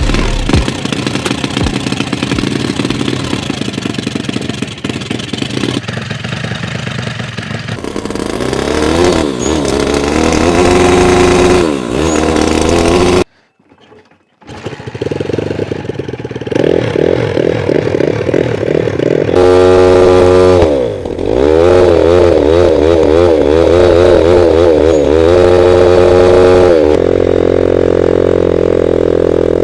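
Engine of a 125cc motorcycle fitted with a homemade turbocharger, running and revved up and down over and over. The sound cuts out suddenly for about a second near the middle, then the engine is heard running and revving again.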